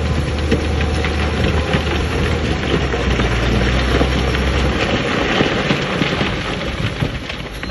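Rock and gravel clattering and tumbling, a dense crackle of many small impacts, over a heavy diesel machine's low drone, which drops out about two-thirds of the way through.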